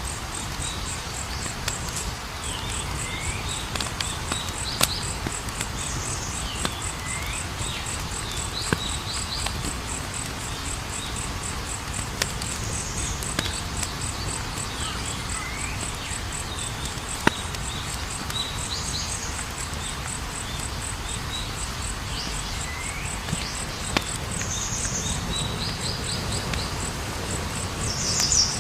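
Campfire burning with a steady low hiss and scattered sharp crackles and pops. Over it, night insects trill in a fast, even, high pulse, and short rising chirps come every second or two.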